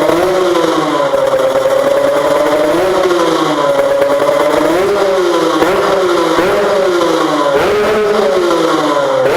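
Engine running through an HPM competition-spec racing exhaust, revved and held at first, then blipped up and down repeatedly, about twice a second, through the second half.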